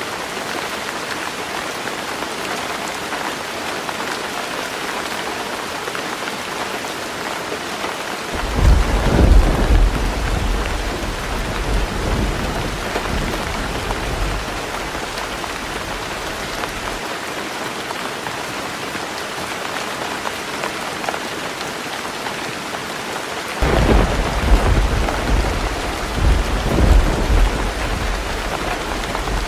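Heavy rain falling on a roof, a steady hiss. Thunder rolls twice: a deep rumble about a third of the way in that lasts several seconds, and another that starts near the end.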